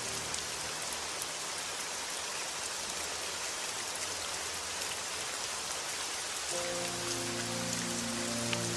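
Steady rain, an even hiss with fine drop ticks. Soft low music tones fade out at the start and a new low chord comes in about two-thirds of the way through.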